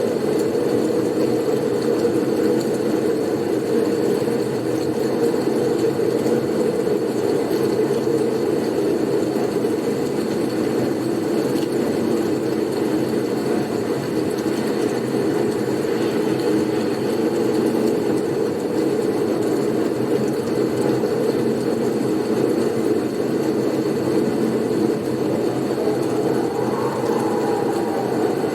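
Blizzard wind ambience: a steady, even, low rushing noise without gusts, with a faint thin whistle above it.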